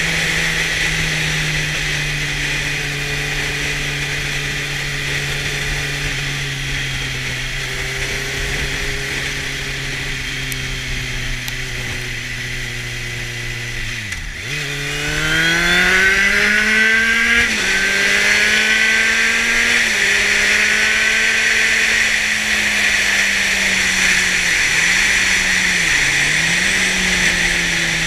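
2004 Kawasaki Z750's inline-four engine through a LeoVince exhaust on the moving bike. The engine note falls slowly for about fourteen seconds, then revs up hard. It drops at a gear change a few seconds later, holds fairly steady with two brief dips near the end, and begins to fall again, over a steady rush of wind.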